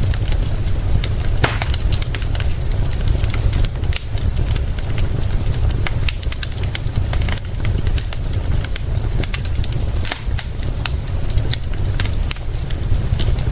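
Wood fire crackling, with many sharp irregular pops and snaps, over a steady hiss of rain and a constant low rumble.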